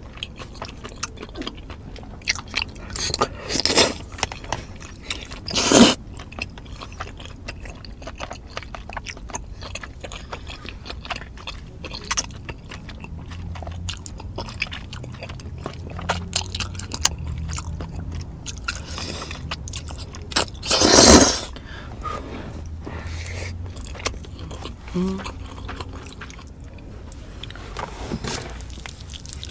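Close-miked eating: chewing and biting with many small crunchy clicks, and a few louder noisy crunches, two a few seconds in and one about twenty seconds in.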